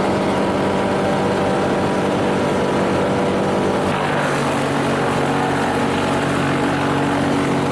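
Camera drone's propellers whirring steadily, the pitch shifting lower about four seconds in.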